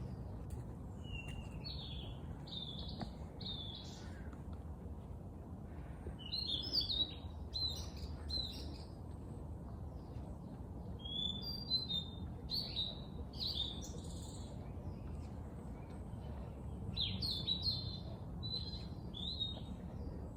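Songbird singing in four bursts of quick chirping notes a few seconds apart, over a steady low background rumble.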